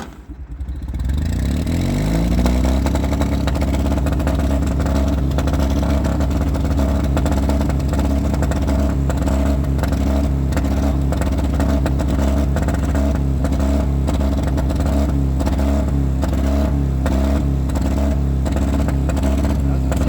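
John Deere R tractor engine, just started cold, picking up speed over the first couple of seconds after a brief dip, then settling into steady running.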